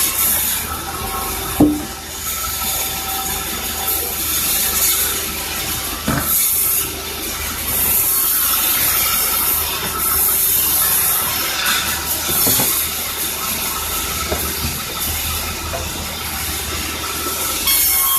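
Sawmill machinery running steadily, a saw cutting timber with a hissing rasp, with three sharp knocks of wood or metal, the first and loudest about two seconds in.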